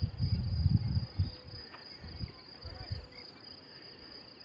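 Crickets trilling steadily in one continuous high note, with a few low rumbles, loudest in the first second and a half and briefly again twice later.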